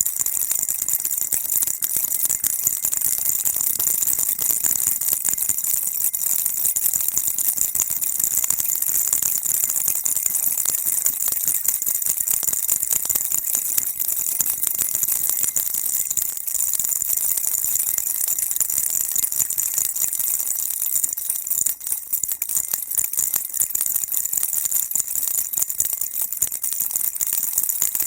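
Baby rattle shaken without pause, a continuous bright, high-pitched rattling, briefly softer about three-quarters of the way through.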